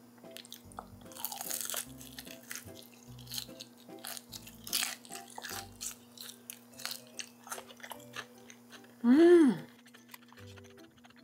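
Crunchy bites and chewing of boneless fried chicken, with many short crackling crunches, over light background music. About nine seconds in, a loud short tone rises and falls.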